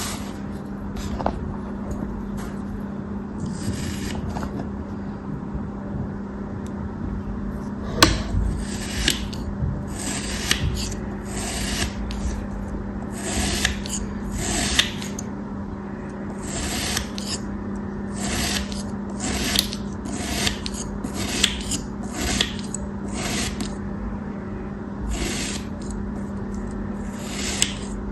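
Knife cutting strokes, a run of short, irregular scraping rasps at roughly one or two a second, with a sharp knock about eight seconds in and a steady low hum underneath.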